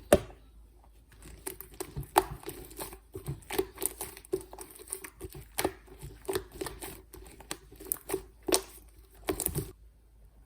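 Slime being squished and folded by hand, giving an irregular run of small sticky pops and clicks that stop shortly before the end.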